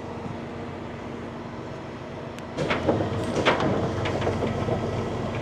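A steady low rumble, then from about two and a half seconds in an irregular run of metal clanks and rattles, as of tow equipment being shifted on a steel truck bed.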